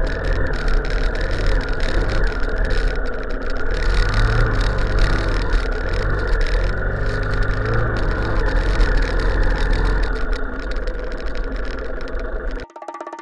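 A vehicle engine running steadily while driving, with rumbling noise over it. It cuts off abruptly shortly before the end.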